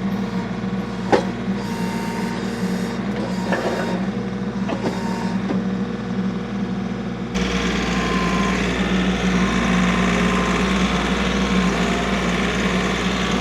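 Engine of a bucket machine running steadily, with a few sharp metal knocks as the bucket works at a bent culvert pipe. About seven seconds in, the engine revs up and stays louder.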